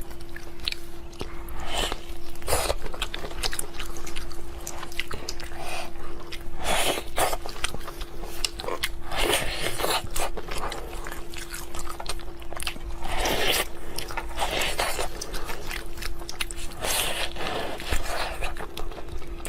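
Close-up chewing and crunching of food, with irregular crunches and bites throughout. A faint steady hum runs underneath.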